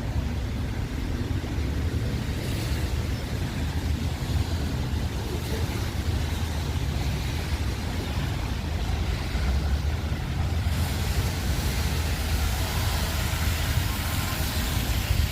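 Wind buffeting the microphone as a steady low rumble, with the hiss of a rainy, wet street over it that grows louder about ten seconds in.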